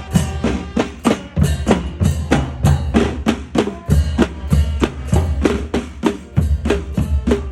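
Percussion-led music: drums and wood-block-like strikes keeping a quick, steady beat over a bass drum.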